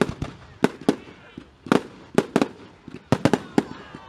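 Fireworks going off: a rapid, irregular string of sharp bangs, about a dozen, coming in clusters.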